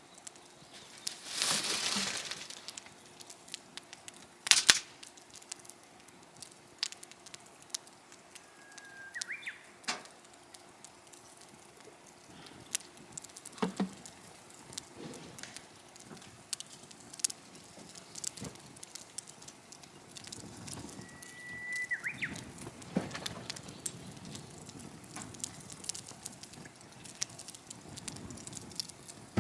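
Wood campfire crackling, with irregular sharp pops and snaps throughout, one louder crack about four seconds in. Two short, high whistle-like calls are heard partway through.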